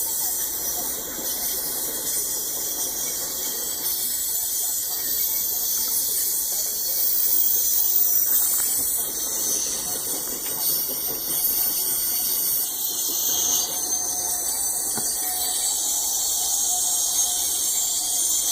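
Coal train cars rolling past on the rails, with steady high-pitched squealing and hiss from the wheels.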